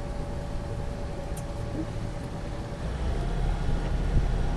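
A boat's engine running under way, a steady low rumble that grows louder about three seconds in.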